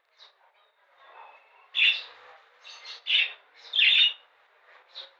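A colony of budgerigars chirping and squawking, with three louder calls about two, three and four seconds in among softer chirps.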